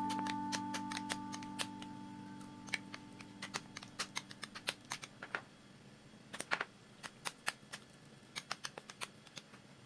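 Typing on a computer keyboard: irregular light key clicks, several a second, in uneven runs with short pauses. Soft background music fades out over the first few seconds.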